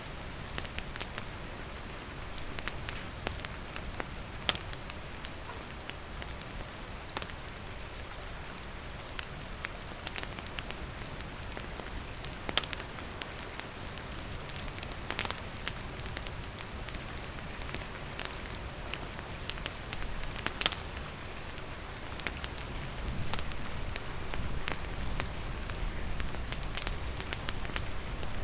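Steady rain falling on and around a wooden shelter, mixed with a wood campfire crackling, its sharp pops scattered irregularly through the rain's hiss.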